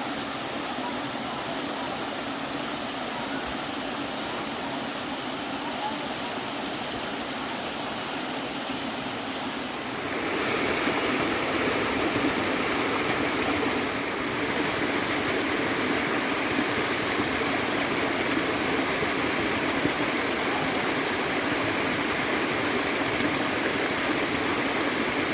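Mountain stream water rushing over rocks, a steady even rush. About ten seconds in it switches abruptly to a louder, fuller rush of cascading water, which shifts slightly again a few seconds later.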